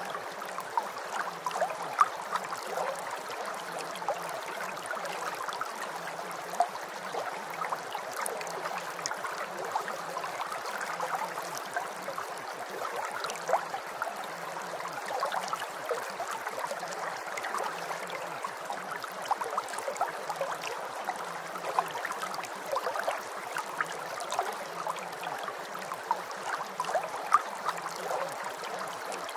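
Steady rain: a constant wash of falling water with many small drop ticks and now and then a louder drip.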